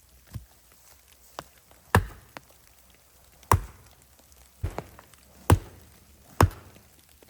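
Firewood being chopped: sharp, irregular strikes, four loud ones between about two and six and a half seconds in, with lighter knocks between them.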